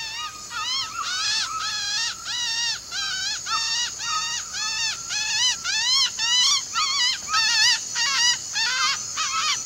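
A quick, steady run of short, squeaky, aracari-type bird calls, each note rising and falling in pitch, about two or three a second. It is a bird call mimicked to lure an aracari within blowgun range.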